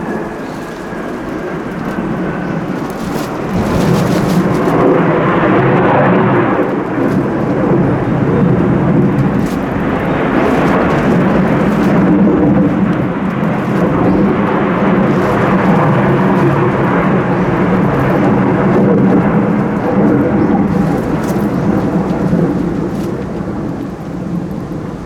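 Military jet aircraft passing overhead: a loud, rumbling jet-engine noise that swells and fades in long waves, with wind gusting on the microphone.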